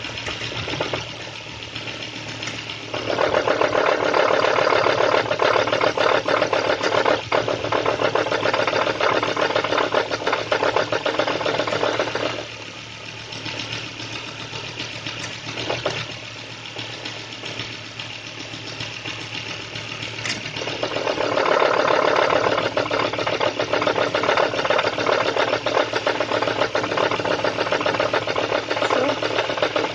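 Volvo S80 engine idling cold with a knock, the automatic gearbox being shifted between Drive, Neutral and Reverse. The sound steps up to a louder, harsher knocking for two long stretches, from about three seconds in to about twelve, and again from about 21 seconds, dropping back to a quieter idle in between.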